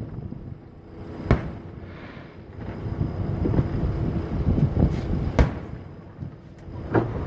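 Aerial firework shells bursting: a series of sharp bangs, the loudest about a second in and again about five seconds in, with fainter pops between over a low rumble.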